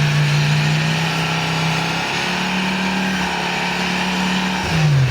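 Dodge Ram's 8.0-litre V10, run with no muffler through turndown exhaust tips, held at high revs. The pitch steps up slightly about two seconds in and drops off near the end.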